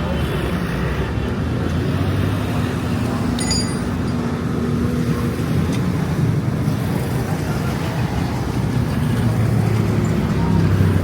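Motor vehicle engine running steadily with traffic noise, a continuous low drone.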